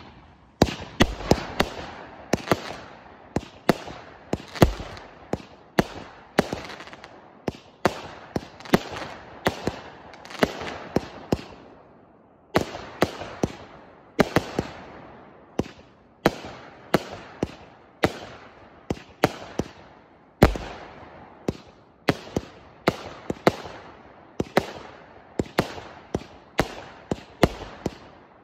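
TKB130 'Firebird' consumer fireworks battery firing shot after shot: sharp bangs about one or two a second, each trailing off, with a few louder reports among them.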